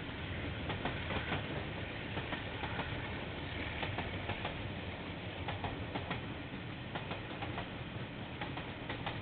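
Train rolling past, its wheels clicking irregularly over the rail joints above a steady rumble.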